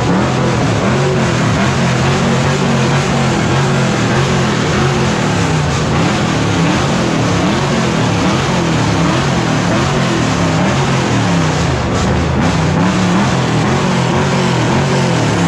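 Car engines revving up and down continuously at high volume over a steady rushing noise.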